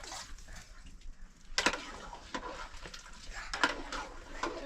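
A few separate sharp knocks and clatters, the strongest about one and a half seconds in.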